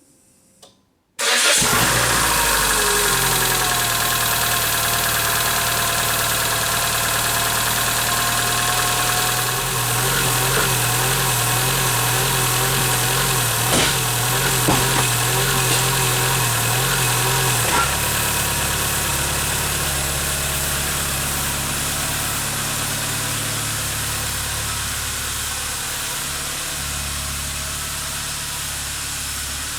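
Citroën Saxo's TU3JP 1.4 four-cylinder petrol engine, coming in suddenly about a second in and then running steadily at idle. A whine drops in pitch over the first couple of seconds as the revs settle.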